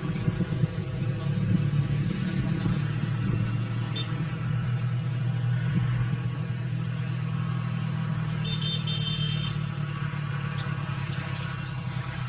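Engine of a brick-clay grinding mill (molen) running steadily at a constant speed, with a brief high chirp a little past the middle.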